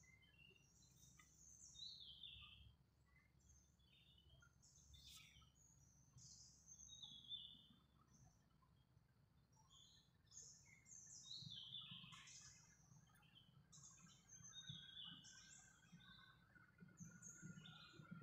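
Faint birds chirping: many short, high calls, most falling quickly in pitch, scattered throughout over a low steady hum.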